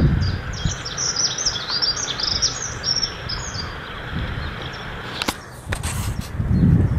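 A songbird singing a fast run of high, twittering chirps through the first half, over a low rumble that swells again near the end.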